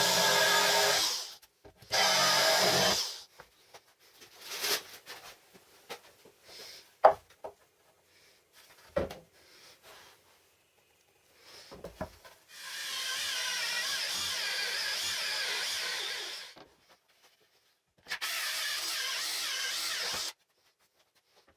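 A handheld power tool working wood in short runs, each start and stop sharp. Between the runs there are scattered knocks and clicks from handling the workpiece and tools.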